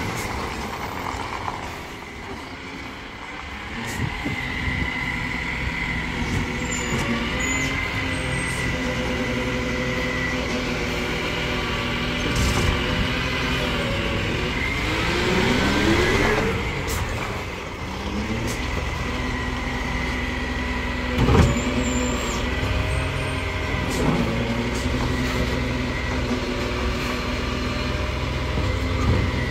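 Garbage truck's engine running steadily, with a rising rev about halfway through and a short, sharp burst of sound about two-thirds of the way in.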